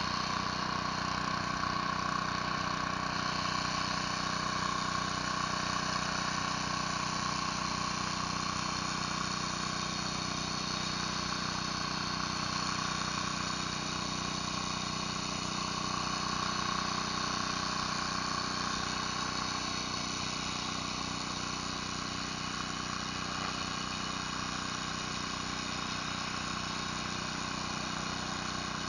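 Pressure washer's engine running steadily under the continuous hiss of a surface cleaner spraying concrete.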